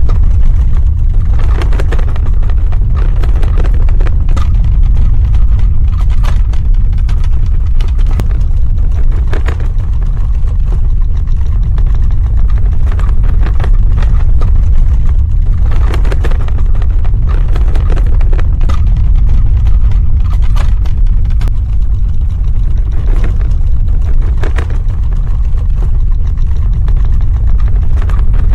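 Earthquake sound effect: a loud, deep, continuous rumble with scattered crackles and rattles throughout.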